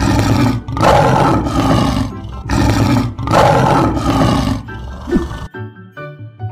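A lion roaring several times in a row, in about four rough, loud roars over the first five seconds, laid over background music. The music carries on alone near the end.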